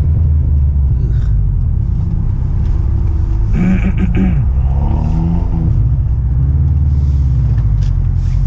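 Steady low rumble of a car's engine and road noise heard inside the moving car's cabin, with a brief pitched sound about halfway through.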